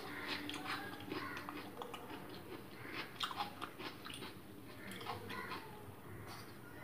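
Close-miked mouth sounds of someone chewing and biting a mouthful of masala Maggi noodles: a string of short, crackly, wet chewing noises that come in clusters, busiest about three seconds in.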